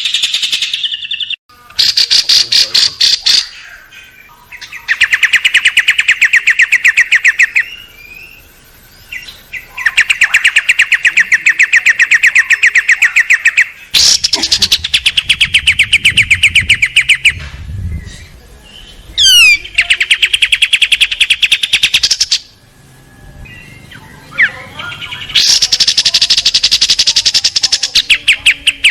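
Small songbird singing in bursts of fast, harsh rapid-fire notes, each burst a few seconds long, about six times with short pauses between. One burst opens with a couple of quick downward-sliding whistles.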